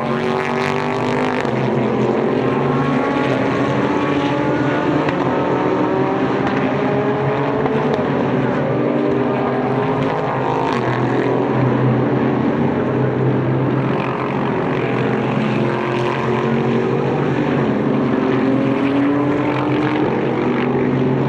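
Several SUPER GT race cars running at once, their engine notes overlapping and rising and falling in pitch as they pass.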